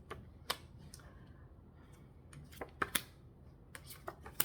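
Tarot cards being drawn and laid down on a table: a scattering of light, sharp clicks and taps, several in quick pairs.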